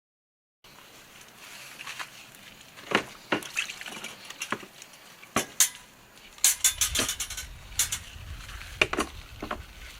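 Irregular sharp clicks and light knocks, starting about half a second in and coming thicker after about six and a half seconds over a low rumble.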